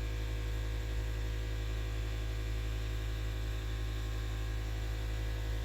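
Steady low electrical hum with a stack of even overtones and no change in pitch or level.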